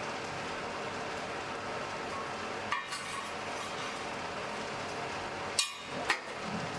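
Steady hiss and crackle of a blacksmith's forge fire, with sharp metallic clinks of iron tools: one a little under three seconds in and two close together near the end.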